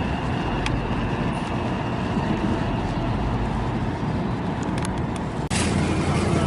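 Steady rumble of a light rail train and street traffic going by, with an abrupt cut to a louder recording about five and a half seconds in.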